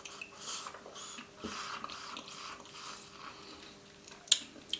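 Faint soft mouth and handling noises around a Tim Tam soaking in a mug of hot chocolate, with two short sharp clicks about four seconds in.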